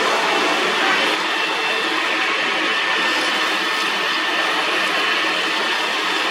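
Metal lathe running, a steady machine noise with a faint high whine and no breaks.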